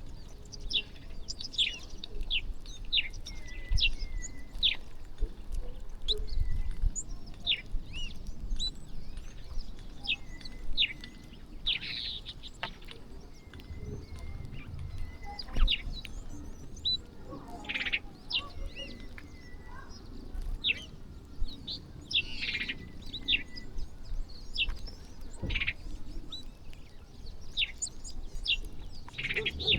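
A flock of small birds chirping continuously while feeding, many short falling chirps a second overlapping with brief level notes, over a low rumble.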